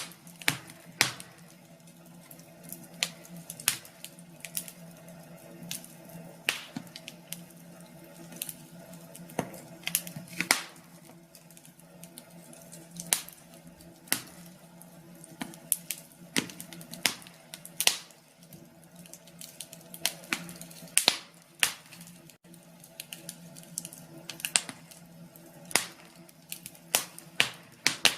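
Wood fire crackling, with irregular sharp pops over a faint steady hum.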